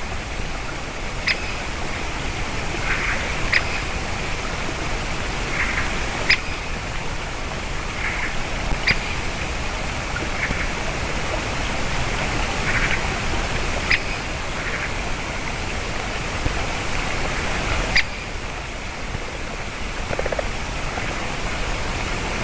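Great spotted woodpecker and magpie calling: single sharp, short calls every few seconds, with short harsh calls in between. All of it is heard over a steady rushing noise.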